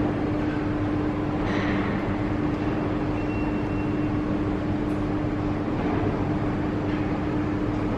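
Steady machinery hum: a constant droning tone over an even, noisy rumble.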